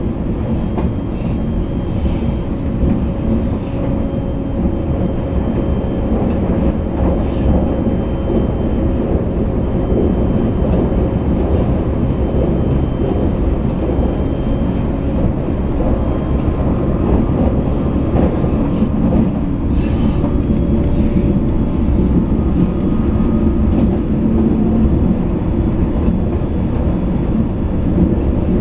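JR East E657 series limited express electric train running at speed, heard inside a passenger car: a steady rumble of wheels on rail with a faint steady hum and faint clicks now and then.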